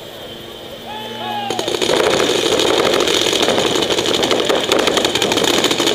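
Paintball markers firing rapidly and continuously, starting suddenly about a second and a half in, with players' voices.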